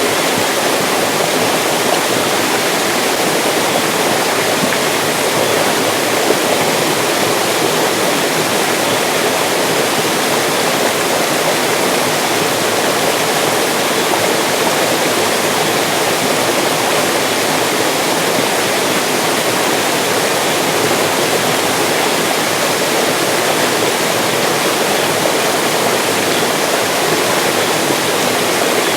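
Mountain stream rushing steadily over rocks, a constant even wash of water with no breaks.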